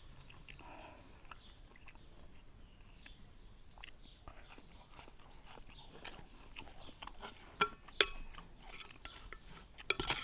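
Close-up chewing and slurping of a mouthful of noodle soup, with a few sharp clinks near the end as a utensil strikes the bowl, one of them briefly ringing.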